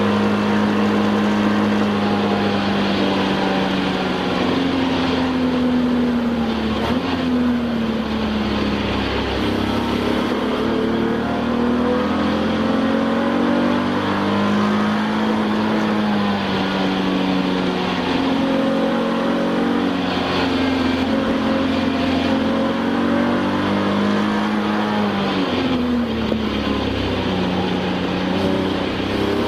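Touring race car engine heard from inside the car at racing speed. Its pitch climbs through the gears and falls away under braking, with sharp drops about a quarter of the way in and again near the end, over steady road and wind noise.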